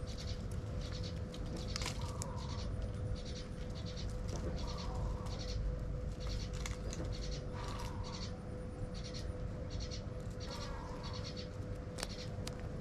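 Birds calling in short, repeated bursts of rapid pulsed notes about every two seconds, with scattered sharp clicks, over a steady faint hum and low rumble.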